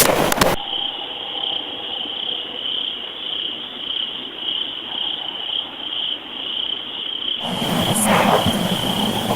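Night insects chirring in a steady, high-pitched, pulsing chorus. A loud rustling noise cuts off abruptly in the first second, and a noisier rustle returns near the end.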